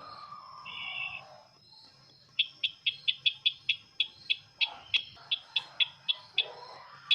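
Call of the sisintar ladang bird, the bird-lure call the video is made of. A short buzzy note comes first, then a quick run of about eighteen sharp, high chirps, four or five a second.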